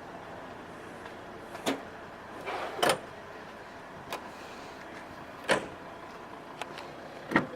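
A series of short, separate clicks and knocks from handling the fittings of a Volvo XC90's cabin, the loudest near two, three and five and a half seconds in and again near the end, over a steady background noise.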